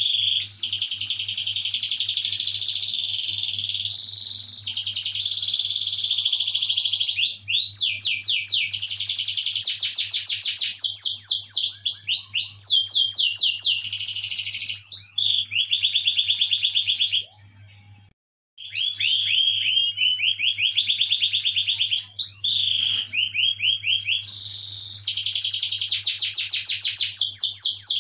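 Domestic canary singing a long, vigorous song of rolling trills and rapid repeated sweeping notes, broken once by a short pause about two-thirds of the way through. A steady low hum runs under it.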